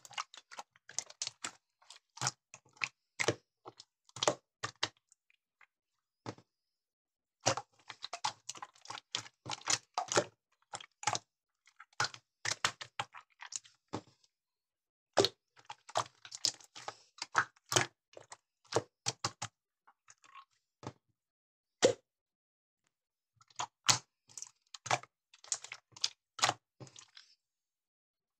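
Slime being handled, giving runs of sharp clicking and crackling pops, broken by several short pauses.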